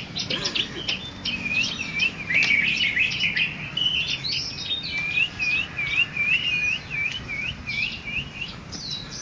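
Songbird singing in a bird-singing contest: quick varied phrases, then a long run of repeated swooping notes, about three a second.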